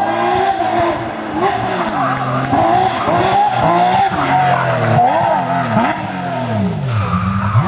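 Porsche 911 GT3 rally car's flat-six engine revving hard, its pitch climbing and falling again and again as it is driven. Near the end it makes one long fall in pitch.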